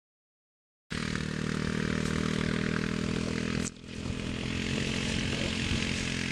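Mud motor engine on an aluminium marsh boat running steadily at speed, with a brief drop in level a little past halfway.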